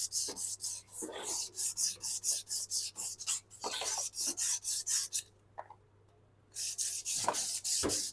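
Emery paper rubbed quickly back and forth over a motorcycle rear drum-brake part, about four scraping strokes a second, cleaning off the glazed lining dust behind the squeaking brake. The rubbing stops about five seconds in and starts again a second and a half later.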